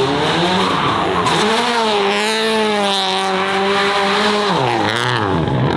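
Race car engine held at steady high revs with tyres squealing, the revs dipping and then picking up again about five seconds in.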